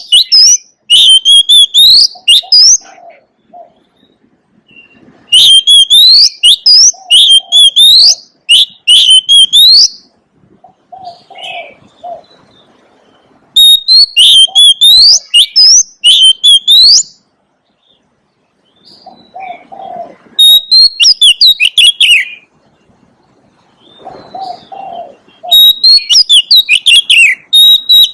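Oriental magpie-robin singing loudly in bursts of two to four seconds, each a quick run of repeated rising whistled notes, with pauses of a few seconds between phrases. A fainter, lower cooing call sounds in some of the gaps.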